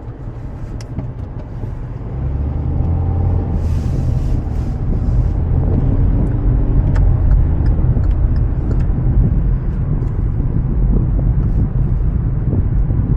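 Road traffic: a motor vehicle's engine running close by with a low, steady rumble, getting louder about two seconds in.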